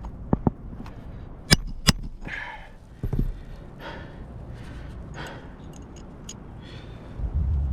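Four sharp knocks in two quick pairs, one just after the start and one about a second and a half in: a hammer driving roofing nails into an asphalt shingle. Softer rustling noises follow.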